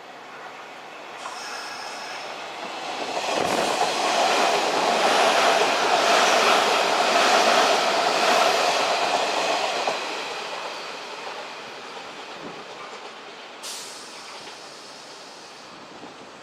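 Kintetsu electric train going by on the rails: it grows loud about three seconds in, stays loud for several seconds, then fades, with one sharp click near the end.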